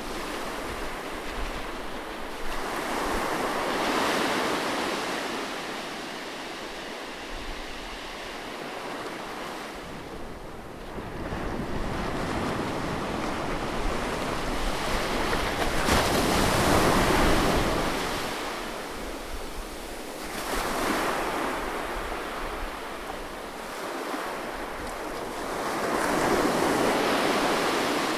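Seaside waves recorded close up, breaking and washing in slow surges that swell and ebb every few seconds, the loudest just past the middle.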